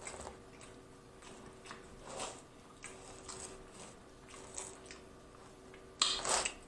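Close-miked chewing and mouth noises of a person eating pizza: soft, scattered wet smacks and clicks, with a louder, longer mouth sound near the end.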